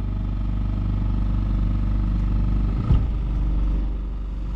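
A sailboat's small petrol engine running steadily while the boat motors along under power, with one short knock about three seconds in.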